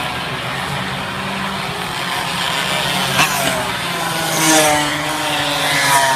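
Racing minibike engines passing by at full throttle, their pitch sliding down and up as they go past and change speed, over a steady background engine drone.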